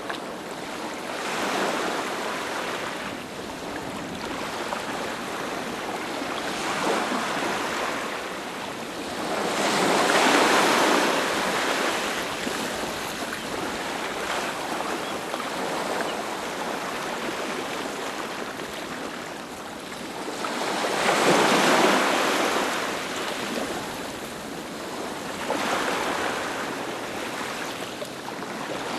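Sea waves breaking onto a beach in slow swells over a steady wash of surf. The two largest waves break about ten seconds in and again about eleven seconds later.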